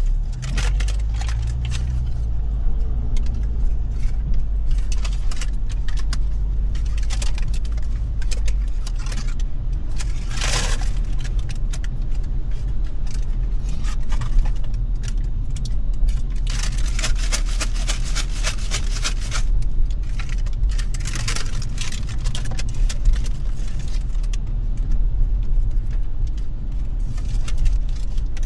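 A car driving in the rain: a steady low rumble of road and engine, with many irregular raindrop taps on the car and a brief swell of noise about ten seconds in.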